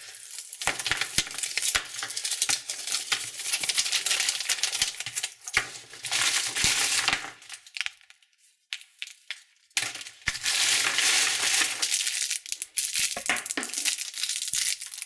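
Plastic candy wrappers crinkling and rustling as wrapped sweets are handled, with small clicks and clatters. It stops for about two seconds past the middle, then picks up again.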